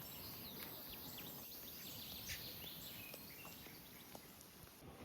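Faint outdoor ambience with small birds chirping in short, scattered calls, busier in the first three seconds.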